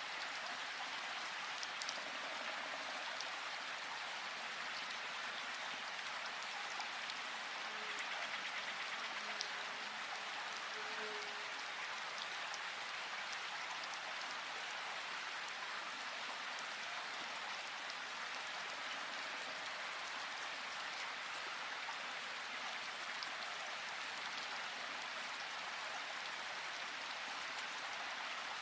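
A river's flowing water rushing with a steady, even hiss.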